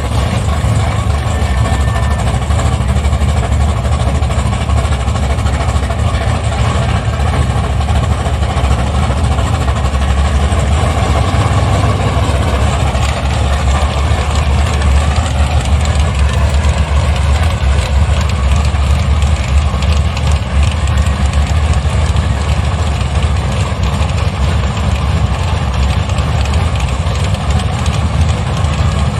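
Drag-race vehicle's engine idling steadily, a loud, even low rumble with no revving.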